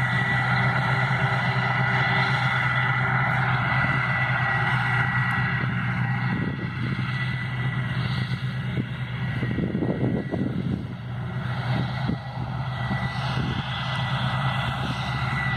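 Steady vehicle engine drone with a constant high-pitched whine over it, and a brief swell about ten seconds in.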